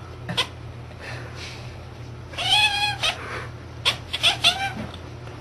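Domestic cat calling: one drawn-out meow that rises and falls in pitch about two and a half seconds in, then a quick run of short chirping meows about a second later.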